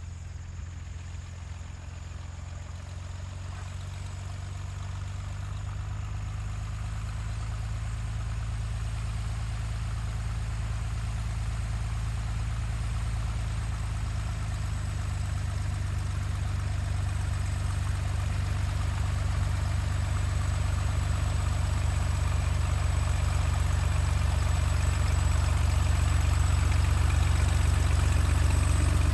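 An engine running steadily at low speed, growing steadily louder as it comes closer.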